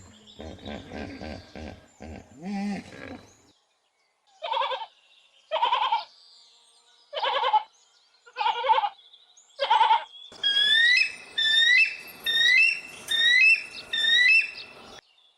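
Recorded animal calls in sequence. First come some low calls. Then an animal gives five short calls about a second apart. Near the end, a bird repeats a short rising chirp about once a second.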